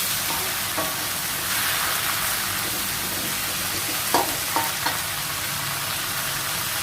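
Water spinach stir-frying in a pan over a high flame: a steady sizzle, with a few short knocks about two-thirds of the way through as it is stirred.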